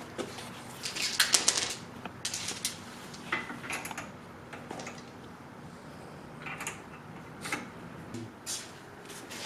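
Scattered metallic clicks and clinks of hand tools and car parts being handled, with a quick run of clicks about a second in.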